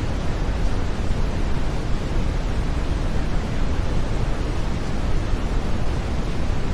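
Steady brown noise: an even, unbroken deep hiss, strongest in the low rumble and fading toward the treble.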